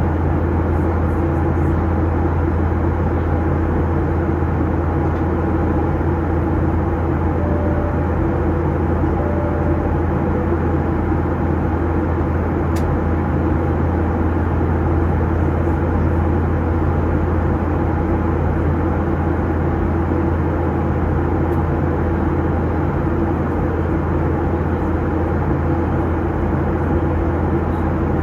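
Steady in-flight cabin drone of a Boeing 737-800: engine and airflow noise heard from inside the cabin, a low hum under an even rushing hiss that does not change.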